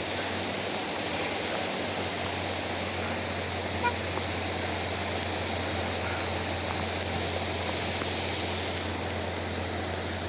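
Heavy rain falling steadily, a dense even hiss, with a steady low hum underneath.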